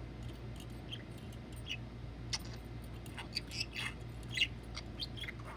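A budgerigar making scattered soft, short high-pitched chirps and squeaks, with a few light clicks between them.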